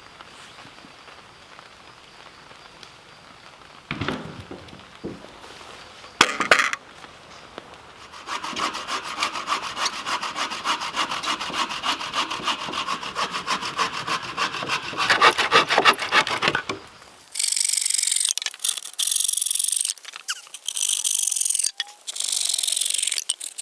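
Small hand saw cutting dry dead-standing wood in fast, even back-and-forth strokes. A couple of knocks come before it, and a brighter, hissing rasp comes afterwards in stop-start spells.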